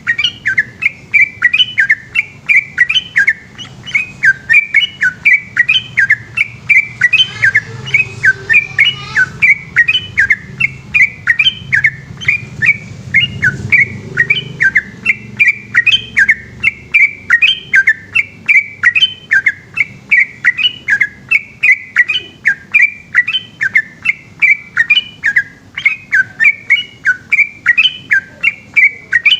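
Yellow-vented bulbul (trucukan) singing a long, unbroken run of short, quick whistled notes, about three a second. This is the rapid continuous 'ropel' song kept-bird fanciers prize.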